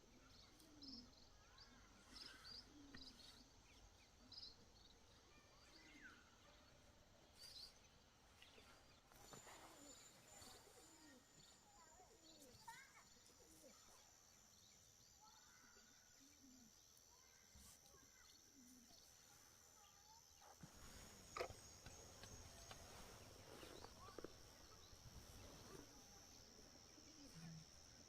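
Faint outdoor ambience with small birds chirping, a steady high-pitched tone setting in partway through, and a few soft knocks near the end.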